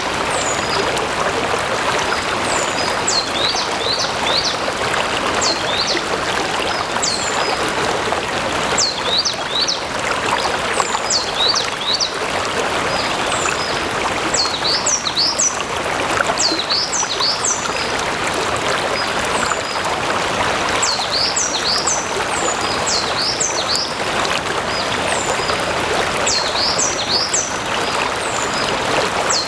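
Stream water flowing steadily. A bird calls in repeated short phrases of quick, high, falling notes every few seconds.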